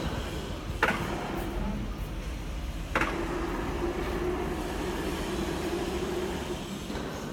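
A heavy truck running with a steady low rumble and hum. There are two sharp clicks or knocks, the first just under a second in and the second about two seconds later.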